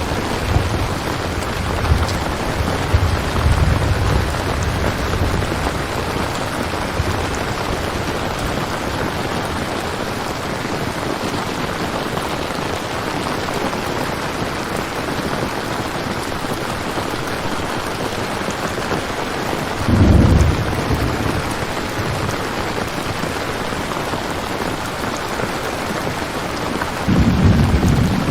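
Steady heavy rain, with low rolls of thunder in the first few seconds, a louder peal about twenty seconds in, and another near the end.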